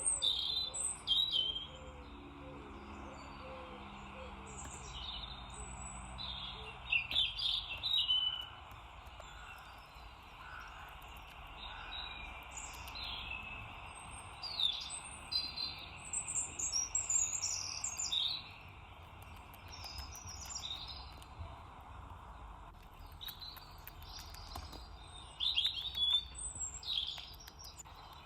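Garden songbirds chirping and singing in short phrases over a steady background hum, with louder bursts of song near the start, about seven seconds in, and near the end.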